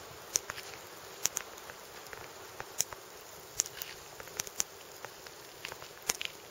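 A hunting knife working on a deer carcass while the backstrap is cut out: about a dozen sharp, irregular clicks and ticks over a faint steady hiss.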